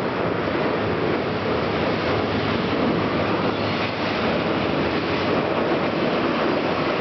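Ice-core drilling rig running: a loud, steady, even mechanical noise with a faint low hum.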